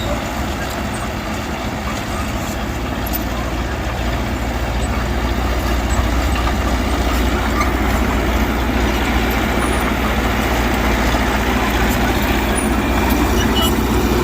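Heavy diesel earthmoving machinery running steadily, with a deep engine sound that grows somewhat louder about four to six seconds in.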